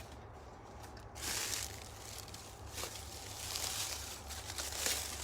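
Footsteps rustling through dry leaves and brush on a forest floor, in uneven spells from about a second in.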